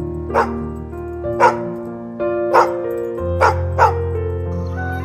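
A small dog barking in about five short, sharp yips over background music of sustained held notes.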